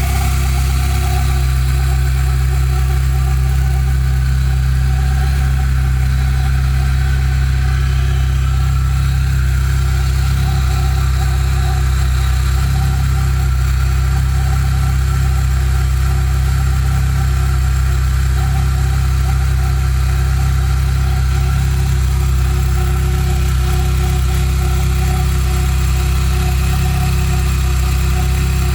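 Volkswagen Pointer engine running steadily at idle, with no change in speed. The owner reports a strange noise from this car.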